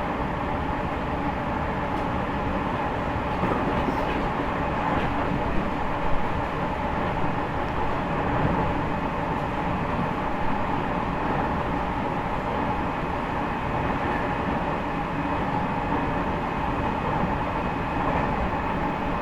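Cabin running noise of an E501 series electric train's motor car (Toshiba IGBT inverter drive) travelling at a steady speed: an even rumble of traction motors and wheels on rail, with faint steady tones and some air-conditioner noise. There is a brief knock about six seconds in.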